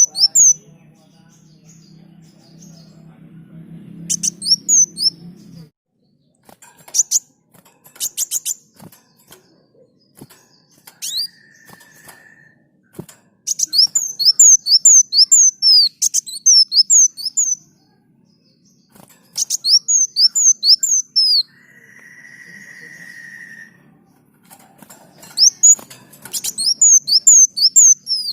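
Kolibri daun, a sunbird, singing in full song: runs of quick, sharp, high chirps, several hooked notes to a run, repeating after short pauses. A low hum sounds through the first five seconds or so, and a short steady whistled tone comes twice, once near the middle and once later on.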